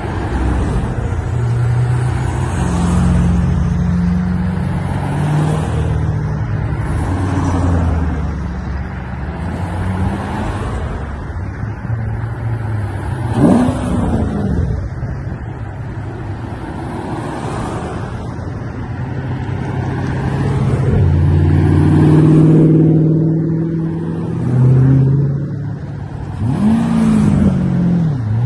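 Corvette V8 engines running and driving by one after another, their pitch shifting continually. Twice, about halfway through and near the end, an engine's pitch sweeps sharply up and back down.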